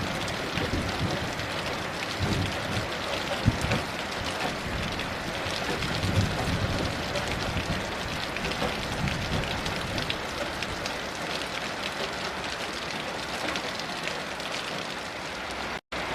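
Steady heavy rain, with low rumbles of distant thunder in the first half. The sound cuts out for an instant near the end.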